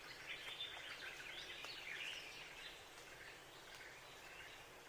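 Several small birds chirping faintly together, busiest in the first two seconds and then thinning out.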